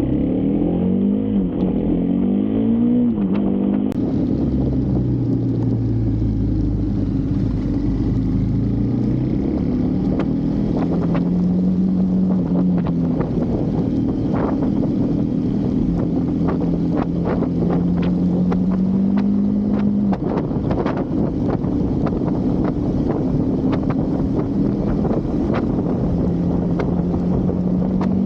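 Husqvarna Svartpilen 401's single-cylinder engine running under way, its revs rising and falling, with wind noise on the microphone. From about ten seconds in there are frequent short sharp clicks and knocks.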